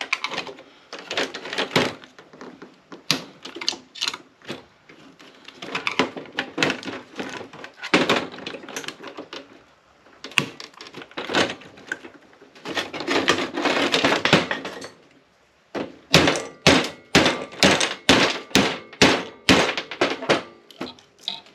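Hand tools knocking, clattering and scraping against the metal parts of an APC battery backup unit as its large transformer is worked loose. Near the end comes a fast, even run of sharp knocks, about three a second.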